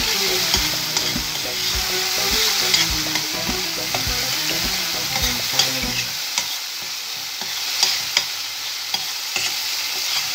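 Onion, spices and tomato paste sizzling in oil in a stainless steel pot while a metal spoon stirs and scrapes across the pot's bottom, giving short sharp clicks over a steady hiss. The paste is being fried down.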